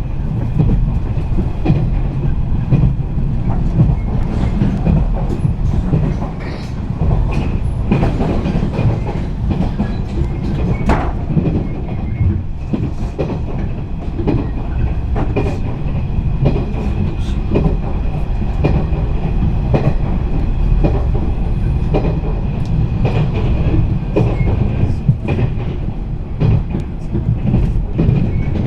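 JR East 485-series electric train running at speed, heard from inside the passenger car: a steady low rumble with irregular clacks of the wheels over the rail joints and a thin, steady high whine.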